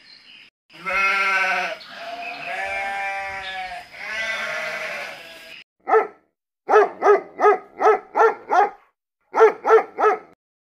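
Animal calls: three long, wavering bleats, then a string of short barks in quick runs of several at a time.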